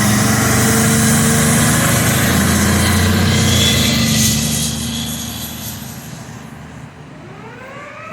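Emergency vehicle's engine running loudly close by, then fading over a few seconds as it pulls away. Near the end a siren starts up, rising in pitch.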